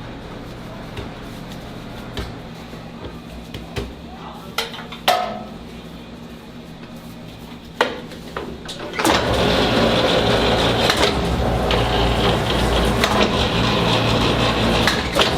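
A few sharp knocks and clatters, then about nine seconds in a louder, steady noise with a low hum sets in and keeps on.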